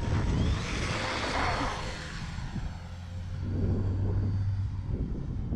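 E-flite EC-1500 Twin RC plane's two electric motors and propellers buzzing as it flies past, swelling to a peak about a second in and then fading. A low rumble of wind on the microphone runs underneath.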